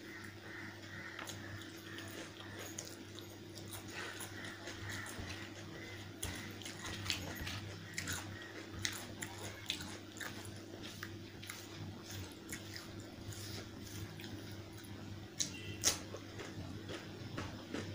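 Close-up chewing and biting sounds of a person eating chicken curry with rice: wet mouth noises and scattered short clicks and snaps, over a steady low hum.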